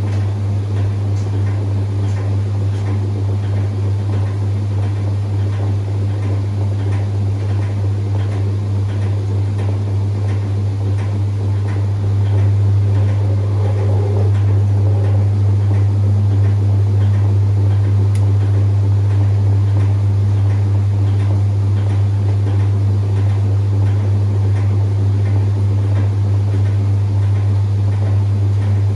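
Whirlpool 3RLSQ8033SWD direct-drive top-loading washing machine running late in a delicate cycle, a steady low motor hum. The hum steps up in level about twelve seconds in and then holds.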